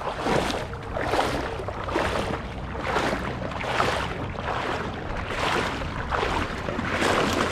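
Water sloshing and splashing in rhythmic swells, about one a second.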